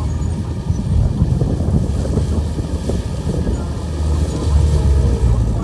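Komatsu bulldozer's diesel engine running steadily, a little louder near the end.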